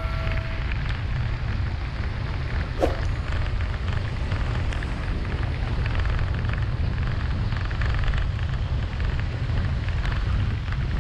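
Steady rain and road noise while driving through wet streets: a constant low rumble under a hiss of rain and tyre spray. A short sharp chirp about three seconds in.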